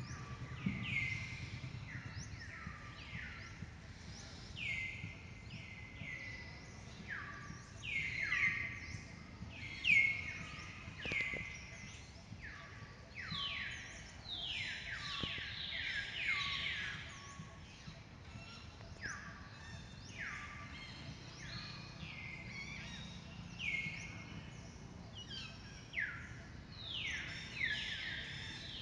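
Several birds calling at once: short, repeated calls that each slide downward in pitch, overlapping one another throughout.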